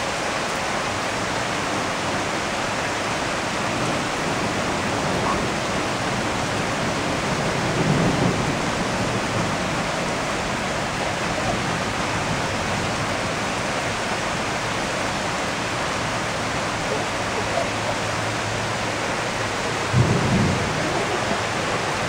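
Heavy rain pouring down in a steady hiss. Two short low rumbles rise out of it, one about a third of the way in and a sharper, louder one near the end.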